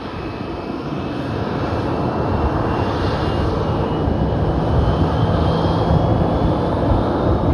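Jet airliner engines at takeoff power: a steady roar that grows louder, with a faint high fan whine rising in pitch.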